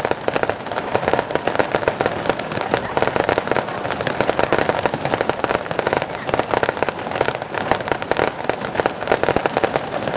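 Fireworks display with dense, continuous crackling: many sharp pops a second without a break.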